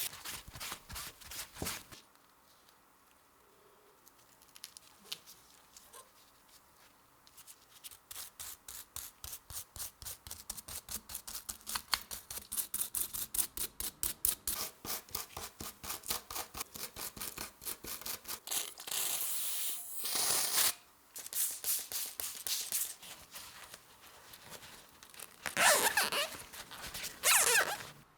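Rapid, rhythmic back-and-forth rubbing strokes on a tool part, several a second, with a few louder hissing stretches near the end.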